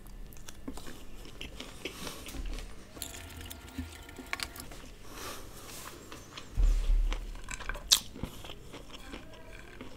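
Close-miked chewing and small wet mouth clicks of a person eating a spoonful of soft food. A low thump comes about seven seconds in, and a sharp click follows about a second later.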